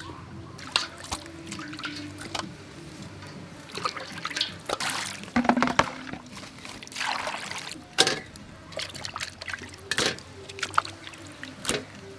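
Water trickling and splashing in stretches, with scattered sharp knocks and clicks of handling during food preparation.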